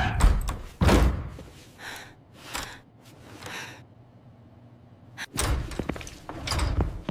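A series of heavy thuds and slams: loud ones during the first second, softer noisy bursts in the middle, and two more loud thumps near the end.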